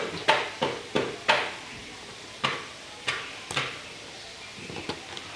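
A run of sharp knocks or taps, several a second at first, then spaced out, with a few faint ones near the end.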